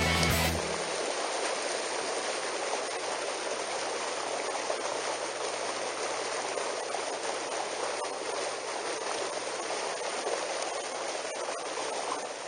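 Steady rushing of flowing water, an even hiss with no pitch, after music cuts off about half a second in.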